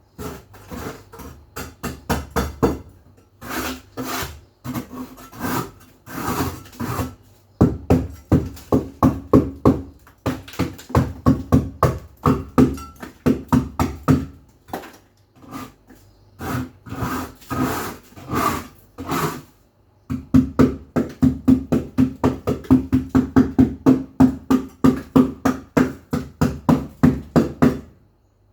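Back-and-forth scrubbing, quick rhythmic strokes about two to three a second in runs with short pauses, as a surface is scrubbed clean.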